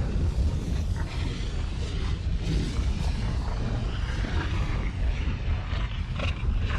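Deep, continuous rumbling of an erupting volcano, with a rough crackle over the low roar and no pauses.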